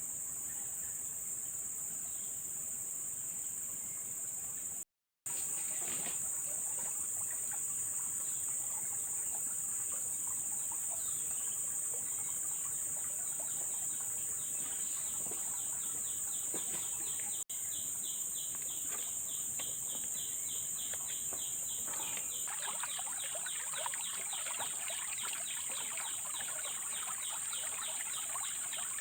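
Steady high-pitched chorus of forest insects, with a second insect's fast, even pulsing call joining about halfway through and growing stronger near the end; faint scattered clicks and a light trickle of water beneath. The sound cuts out for a split second about five seconds in.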